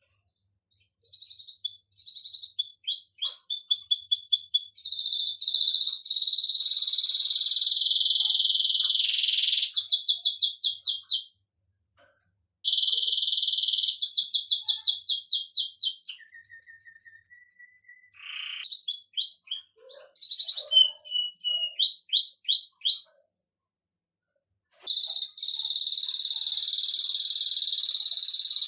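Domestic canary singing: long phrases of fast repeated notes and rolling trills, high-pitched, with a couple of short pauses between phrases.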